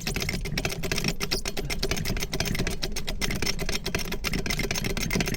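A wrench rattling out a rapid, steady run of clicks as lug nuts are run off the air seeder's wheel hub.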